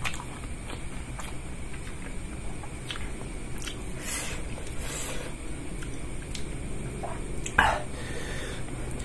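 Close-miked mouth sounds of a person eating instant noodles and rice: chewing with small wet clicks and smacks, and one brief, louder mouth sound about three-quarters of the way through.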